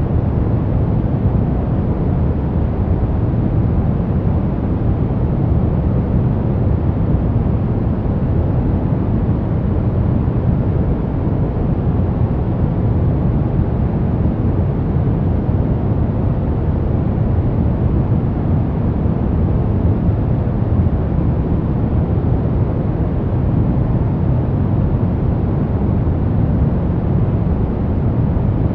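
Baby-sleep white noise: a loud, steady, deep rushing hiss with no change in level or pitch.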